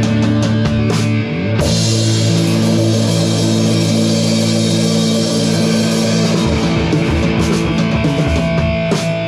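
Punk rock band playing live: an instrumental outro with guitars and drum kit, with a short break in the chords about a second and a half in.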